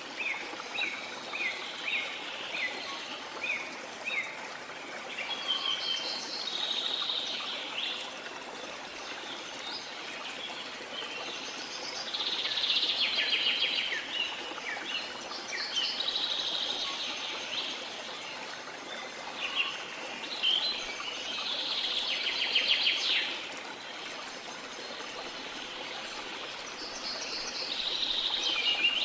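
Birds singing over the steady rush of flowing water. A run of short, falling chirps opens the stretch, then trilled song phrases come back every few seconds.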